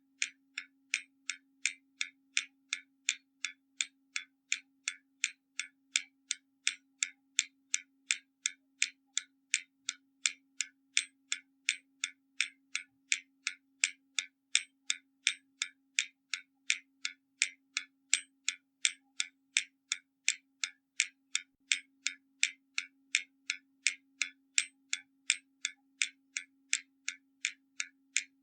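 Hermle mechanical skeleton clock ticking: sharp, even clicks of the escapement, roughly two to three a second.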